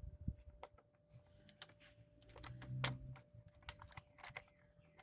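Irregular plastic clicks, taps and rattles as a lawn mower's air filter cover is pushed and fumbled into place. The cover will not seat easily because the thick new pre-filter hits it.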